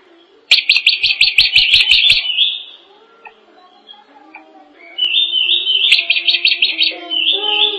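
Drongo singing: two loud phrases of rapid chattering notes, about eight a second, the first starting half a second in and the second about five seconds in.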